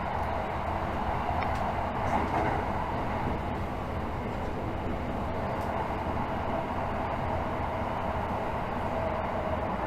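Tokyo Metro 13000 series subway train running between stations, heard from inside the car: a steady rumble of wheels on rail with a faint hum.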